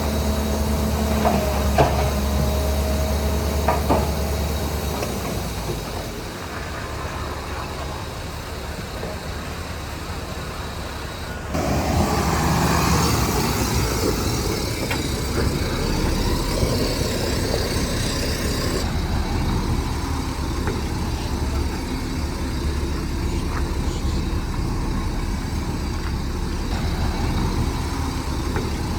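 Heavy diesel earthmoving machinery running with a steady low drone. A whine and two sharp knocks come in the first few seconds, and about a third of the way in the sound jumps abruptly louder and rougher for several seconds before settling back.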